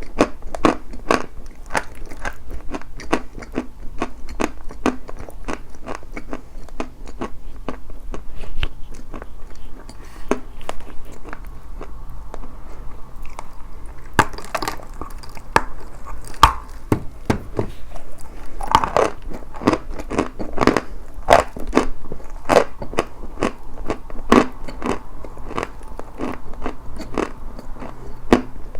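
Close-miked chewing of dry white chalk: a dense run of crisp crunches several times a second, with a few louder crunches in the second half.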